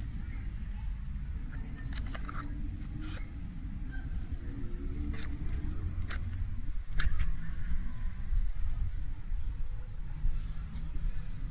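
A bird calling repeatedly: short, high chirps that slide downward, about six of them a second or two apart. Under them runs a steady low rumble, with a few sharp clicks or snaps.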